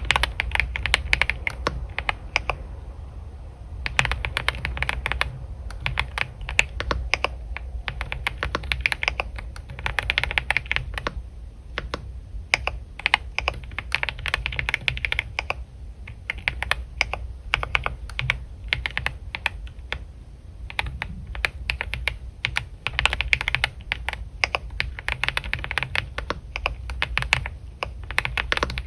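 Typing on a computer keyboard: rapid clicking keystrokes in uneven runs of a second or two, broken by short pauses. A steady low hum lies underneath.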